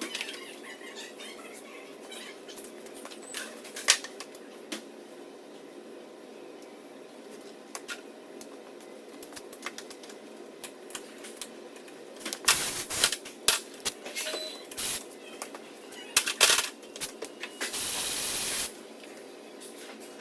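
Scattered clicks and metal clinks of hand tools on engine parts over a steady shop hum, busier and louder for a few seconds past the middle, then a hiss lasting about a second near the end.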